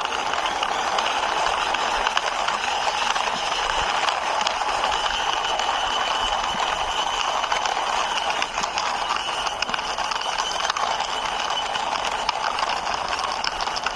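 Plastic toy six-wheeler bus pushed along by hand, its wheels rolling and rattling in a steady, continuous grind with fine rapid clicking.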